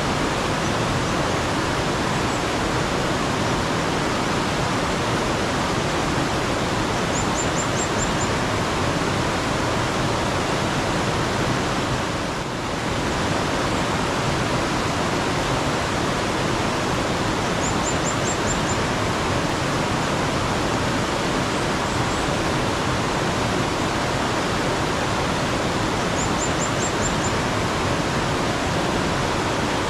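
Steady rushing of a mountain stream, with a faint bird call of about five quick high notes heard three or four times, roughly every nine seconds.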